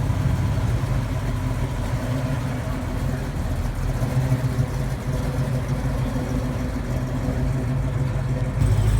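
A car engine idling steadily, getting louder near the end.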